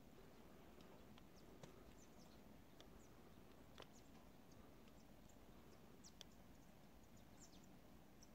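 Near silence: faint steady background hiss with a few faint, sharp ticks scattered through it.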